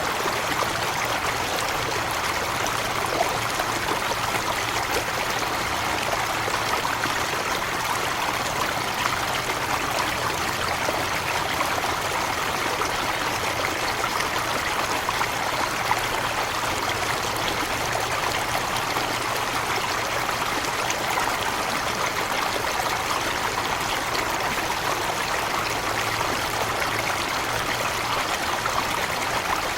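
Forest waterfall, water falling and running over rocks in a steady, even rush.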